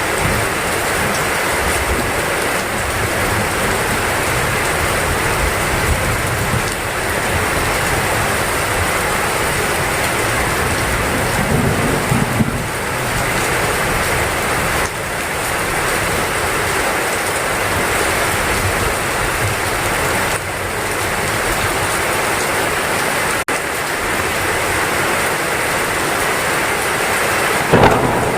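Heavy rain pouring steadily, with brief low rumbles of thunder about twelve seconds in and again near the end.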